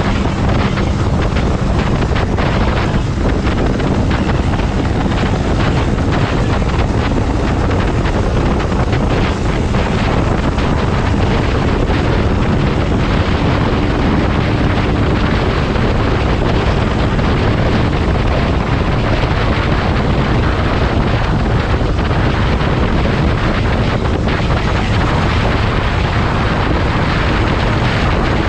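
Motorcycle engine running steadily at cruising speed, with heavy wind buffeting on the microphone.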